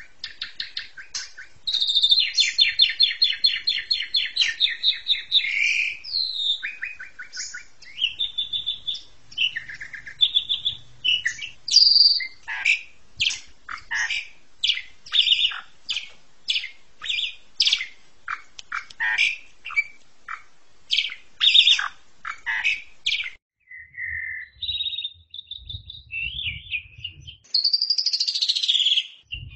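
Asian pied starling (jalak suren) singing a long, varied song: a buzzy rattle early on, then a quick run of sharp chirps and clicking notes, with whistled phrases near the end.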